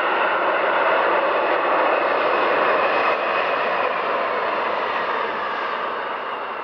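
Airliner engine noise from a passing aircraft: a steady, loud rush that slowly fades over the last few seconds.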